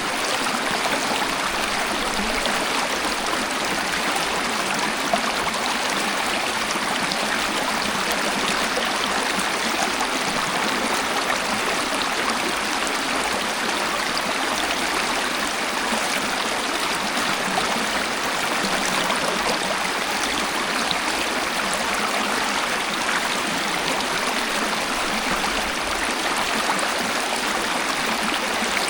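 Waterfall: water falling and splashing steadily as an even, unbroken rush.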